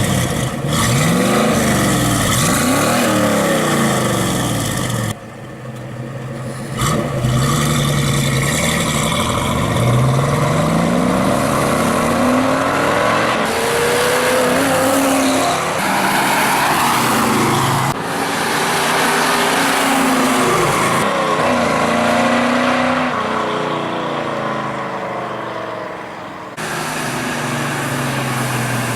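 1977 Camaro Z28's 350 V8 running through a new Pypes Street-Pro 2.5-inch dual exhaust with X-pipe, revved up and down again and again. The sound changes abruptly three times, as if cut between separate takes.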